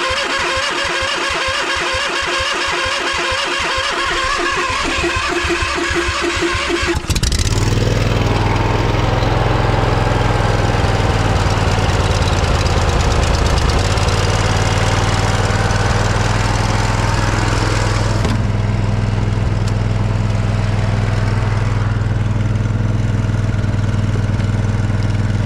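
Starter cranking the Poulan lawn tractor's cold engine on choke for about seven seconds, then the engine catches and settles into a steady run.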